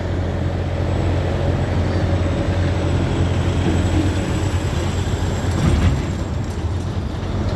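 Steady low engine rumble from a semi-truck's diesel engine running, with no sharp changes in pitch or level.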